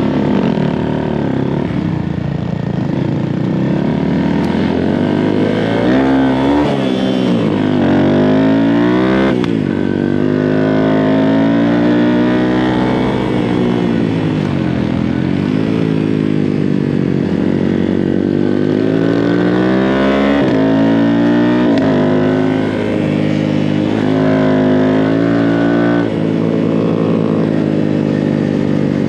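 A small 125cc single-cylinder Honda minibike engine ridden hard around a track, revving up and down with the throttle. The pitch climbs and then drops off sharply several times, at gear changes and when the rider rolls off the throttle for corners.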